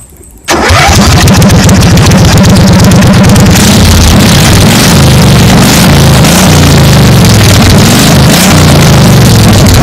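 An 18 hp Briggs & Stratton racing engine in a small homemade truck starts abruptly about half a second in and runs loud, its pitch rising and falling as it is revved.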